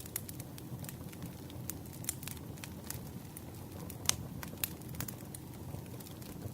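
Campfire crackling: wood burning with a steady low rush and scattered sharp pops and snaps, the loudest pop about four seconds in.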